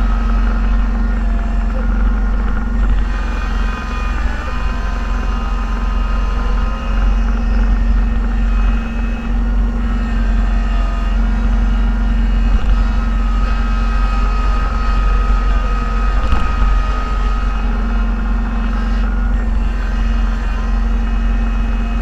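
Plow vehicle's engine running steadily under load, heard from inside the cab as a continuous low drone with a higher whine that wavers in pitch.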